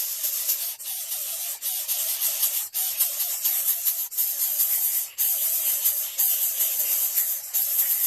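Greater coucal chick hissing harshly and almost without pause, broken by short gaps about every second or so.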